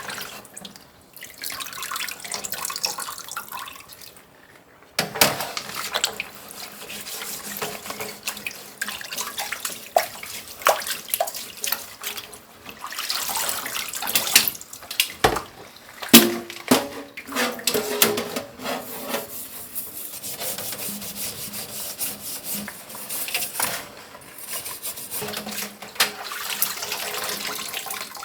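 Water running from a kitchen tap into a sink in spells, starting and stopping, with sharp knocks and clinks of things being handled under it.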